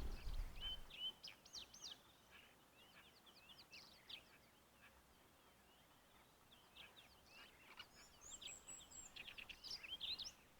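Faint chirps and short whistles of several wild birds calling in scattered bursts, busiest in the first two seconds and again from about seven seconds in, with a drawn-out high whistle near eight seconds. A low rumble fades out in the first moment.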